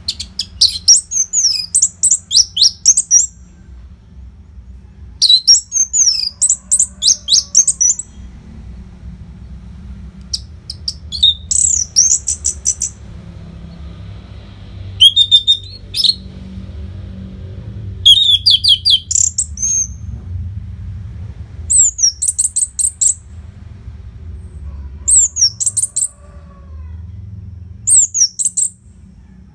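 Orange-headed thrush (anis merah) singing: about nine phrases of quick, high, sweeping and chattering notes, each two to three seconds long with short pauses between. A faint low hum runs underneath.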